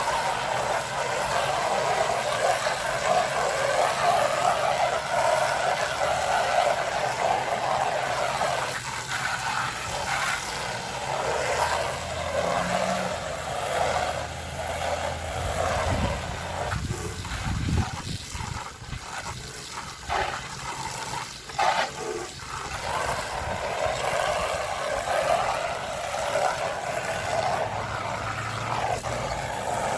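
Steady hiss of water spraying against house siding. The spray cuts out briefly about two-thirds of the way through, with a few knocks and thumps, then starts again.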